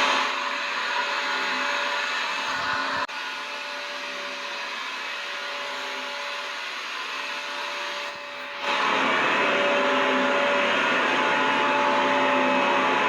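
Vacuum cleaner motor running steadily: a dense rushing noise with a steady whine in it. It drops in level just after the start, cuts out for an instant about three seconds in, and comes back louder about nine seconds in.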